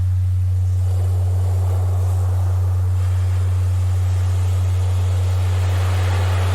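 A steady, unbroken low hum, a generated Rife-frequency tone, over ocean surf whose waves swell and wash out, one peaking about a second in and another building near the end.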